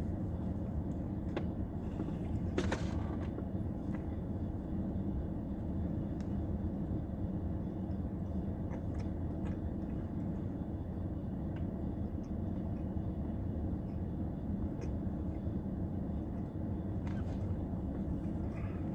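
Steady low rumble, with a few faint clicks and a short rustle about three seconds in.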